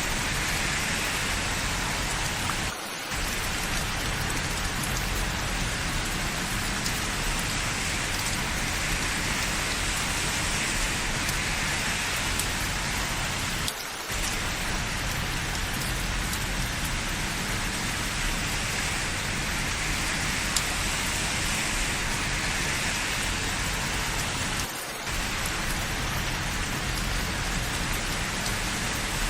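Steady rain falling, an even, dense hiss. It dips briefly in level three times, about eleven seconds apart.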